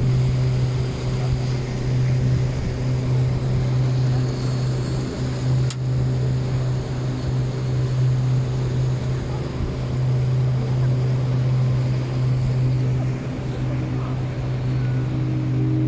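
Boat engine running steadily at cruising speed, a low, even drone.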